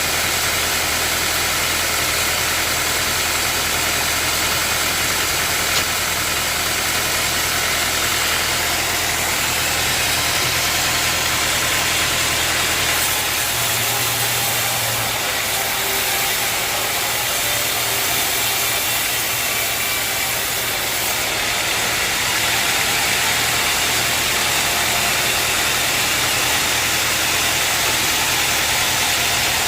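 Sawmill machinery running steadily with a constant hiss; its low hum changes about halfway through.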